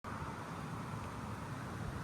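Steady low rumble and rushing noise of a vehicle in motion.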